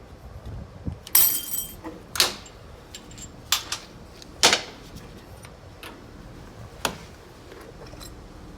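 Flat-head screwdriver and steel snap ring clicking and clinking against the transmission clutch drum as the round clip is pried out of its groove, about five sharp clicks, the one a little over a second in ringing brightly.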